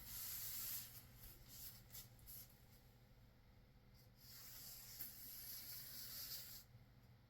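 Marker pen rubbing along a surface as it traces a line, faint, in a few strokes: one in the first second, short ones after it, and a longer stretch from about four seconds in.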